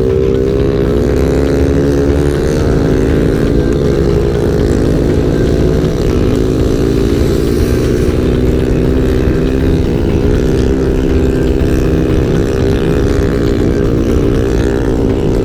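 Motorcycle engine running under way, its pitch dipping and climbing back several times as the throttle is rolled off and on, over a steady rumble of wind and road noise.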